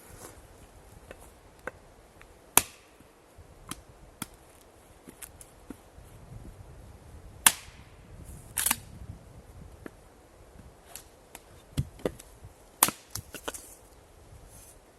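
Axe chopping and splitting wood: about five sharp strikes a few seconds apart, with fainter knocks and clatter between them, as a freshly fitted makeshift axe handle is tried out.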